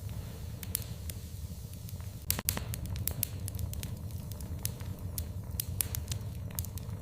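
Fire in a fireplace crackling, with scattered sharp pops over a steady low rumble; a short run of louder pops comes a little over two seconds in.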